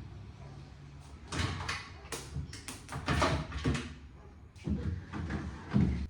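Scattered knocks and light clatter of a refrigerator being handled: its door and plastic shelves moved about.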